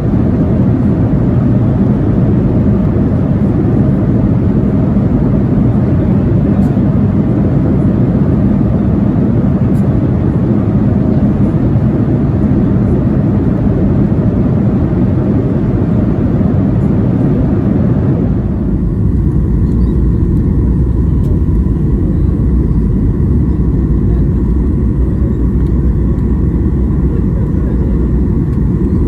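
Steady cabin noise of a jet airliner in flight, engines and airflow making a continuous rumble with a hiss above it. About two-thirds of the way through, the sound changes abruptly: the hiss thins and a deeper rumble with faint steady tones takes over.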